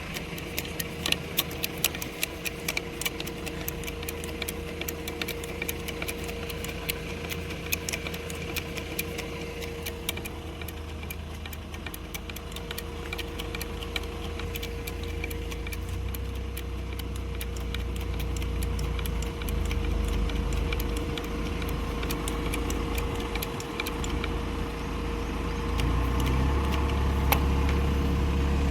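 A vehicle engine running steadily, with a constant hum and a rapid scatter of sharp clicks in the first half. The low rumble grows louder over the last ten seconds.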